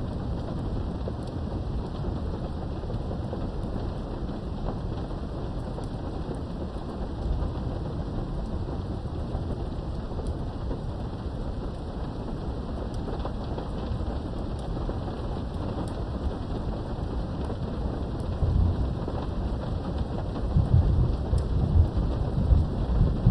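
Steady rain with rolling thunder, heard from behind a window. The low thunder rumble swells near the end.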